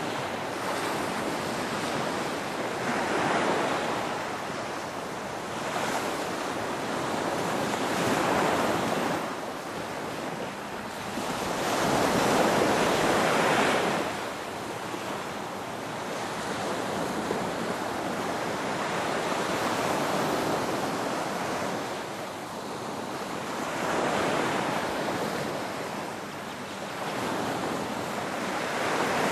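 Ocean surf: waves breaking and washing in, the rush of water swelling and easing every few seconds, loudest about halfway through.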